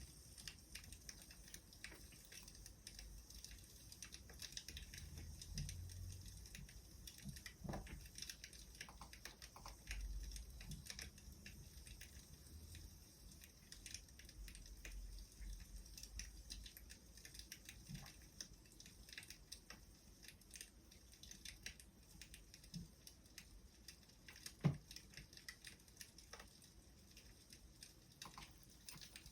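Faint crackling of a wood fire: scattered small ticks and pops at irregular intervals, with one sharper pop near the end.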